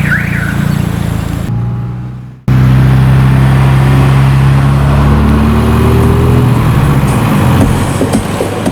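A car audio system's subwoofers playing very loud, deep, sustained bass. It fades out about a second and a half in, drops almost to silence, then cuts back in abruptly at full level and holds steady low notes, turning choppier near the end.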